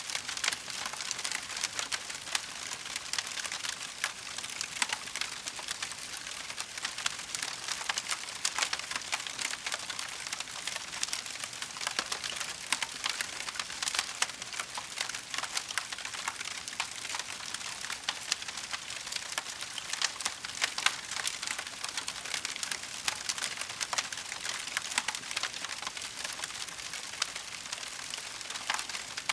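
Wood fire crackling: a dense, continuous run of small pops and snaps over a soft hiss.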